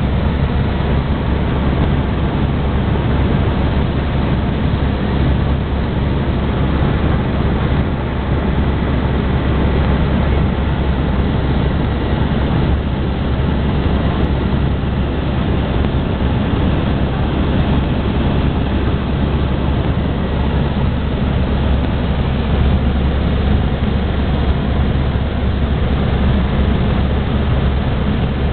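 Helicopter in flight: a loud, steady drone of engine and rotor, heaviest in the deep low end, as heard from on board.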